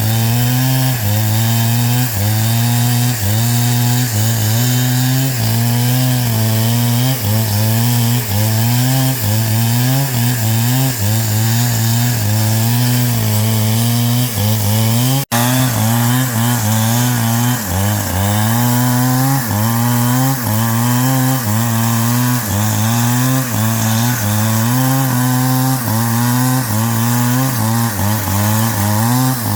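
A power tool's motor runs hard against wood, its pitch dipping and recovering over and over as the tool is pressed into the timber and eased off. There is a brief break about halfway through.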